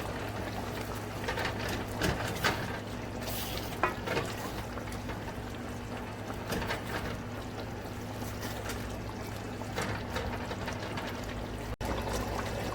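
Hot water poured into a Dutch pot of chicken cooking in its juices, with a few light knocks against the pot over a steady low hum; it breaks off suddenly near the end.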